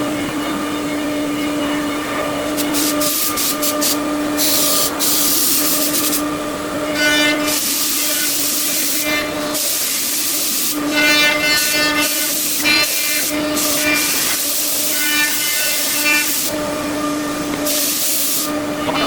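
5-axis CNC machine running, its spindle giving a steady high whine, with repeated bursts of loud hiss coming and going over it.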